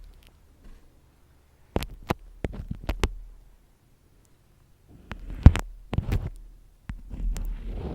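Close-miked ASMR handling sounds: irregular sharp taps and clicks with soft low rustling between them, the loudest tap about five and a half seconds in.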